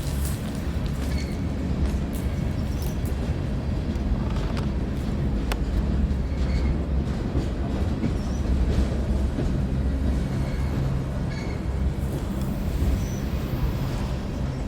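Train crossing a railway bridge overhead, heard from underneath: the bridge's vibration makes a steady low drone, with a few faint clicks and knocks.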